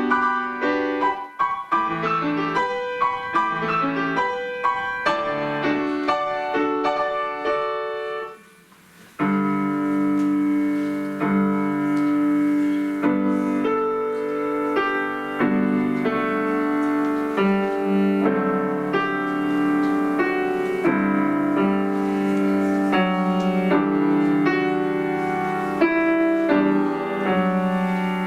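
Piano playing: quick, busy passages of notes, a short break about eight seconds in, then slower, held chords.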